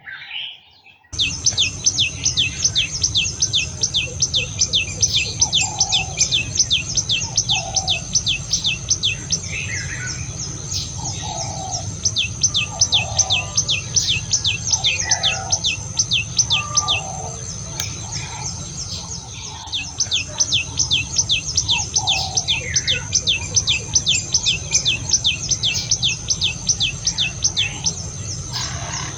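Garden birds calling: a high, short falling chirp repeated rapidly and evenly, about four a second, over a thin steady high whine, with scattered lower calls from other birds. A steady low rumble runs underneath. It all starts abruptly about a second in.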